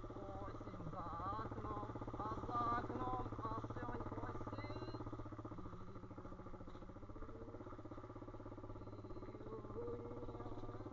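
Pit bike's single-cylinder engine running steadily at an even pitch.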